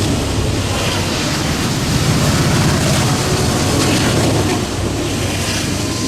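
A train passing close by: a loud, steady rumble with a hiss over it.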